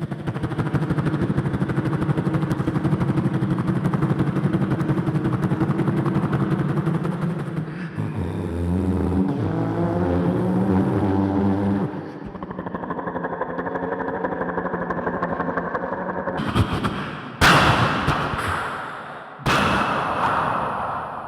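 Mimicked air-raid battle sounds from a live sound-illusion act through the PA: a rapid rattle like aircraft engines and machine-gun fire, a shifting pitched drone in the middle, then three sudden loud blasts like explosions near the end.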